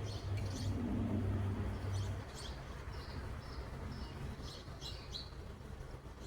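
Small birds chirping, a string of short, high calls spread through, over a low hum that drops away about two seconds in.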